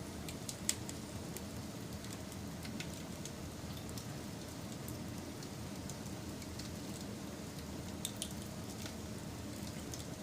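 Wood fire burning: a steady low rush of flames with scattered crackles and pops, one sharp pop under a second in and another about eight seconds in.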